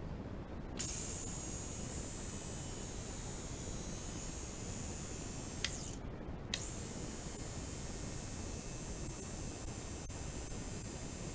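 Panasonic ES-KS30 electric shaver running on its replacement Mabuchi RE-260RA motor, a steady high-pitched hissing hum. It switches on with a click about a second in, stops with a click about halfway, and starts again a moment later.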